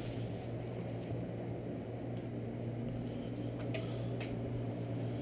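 Steady low hum of the garage background, with two faint clicks about three and a half and four seconds in from handling the pull-starter parts.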